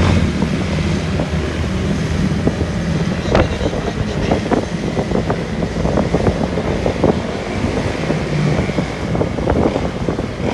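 Dirt bike engine running, with wind buffeting the microphone and many short knocks and rattles. The engine hum is plainest in the first couple of seconds.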